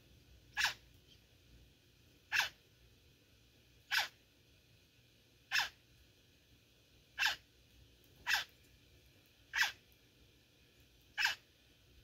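A bird's short, harsh call repeated seven times at an even pace, about one every second and a half.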